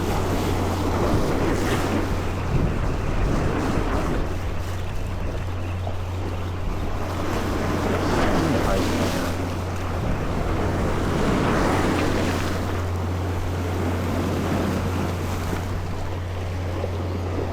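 A small boat's engine droning steadily under water washing against the hull, with wind buffeting the microphone; the splashing swells a few times, about two, eight and twelve seconds in.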